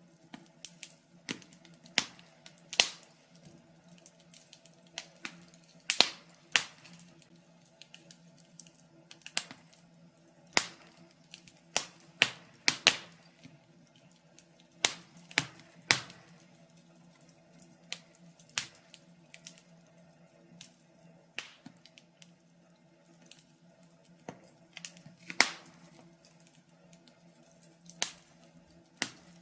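Log fire in a fireplace crackling: irregular sharp pops and snaps, a few of them loud, over a faint steady hum.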